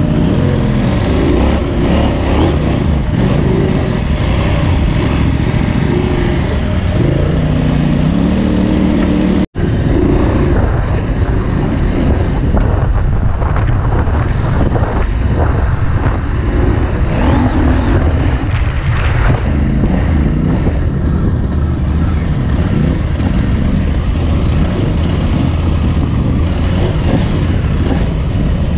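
Parallel-twin adventure motorcycle engine running and revving up and down under riding load. The sound breaks off for a split second about a third of the way through.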